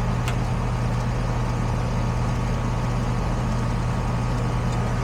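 Furnace blower running with a steady low hum. A single sharp click comes just after the start.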